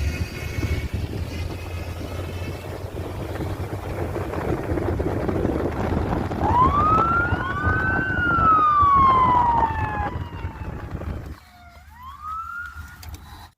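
Police car siren wailing behind a moving car. It rises and falls once about six seconds in over steady road and engine noise, and gives a short whoop near the end after the road noise drops away.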